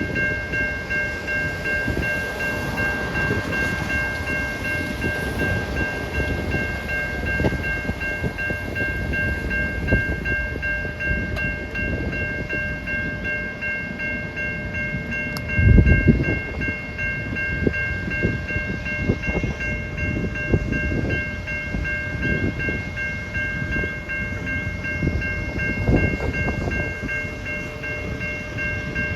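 Electronic level-crossing bells (Safetran Type 3) start ringing and keep going with a steady high chime of three pitches, signalling the crossing has activated for an approaching train. Underneath is an uneven low rumble that swells briefly about halfway through.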